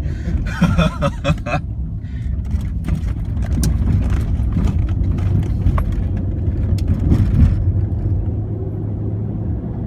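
Steady low engine rumble with a constant drone, starting under a brief burst of excited voices in the first second and a half.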